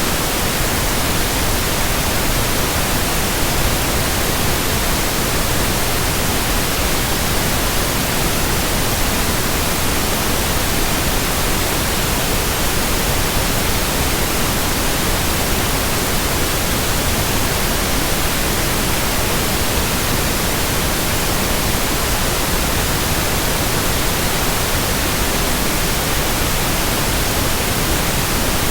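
Steady white noise: a continuous, even hiss spread across all pitches, with no tones, rhythm or changes.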